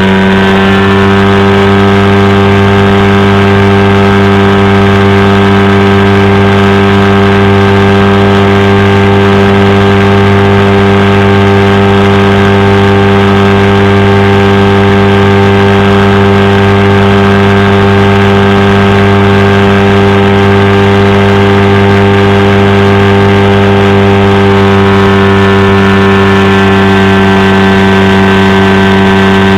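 Powered parachute's engine and propeller running at a steady speed: a loud, constant drone that holds its pitch throughout.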